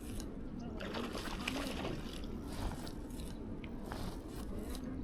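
Water splashing and trickling in a few irregular bursts, close to the microphone.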